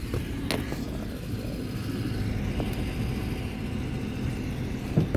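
Inside the cabin of a Toyota sedan with a manual gearbox, the engine running steadily at low speed, with a sharp click about half a second in and a louder knock near the end.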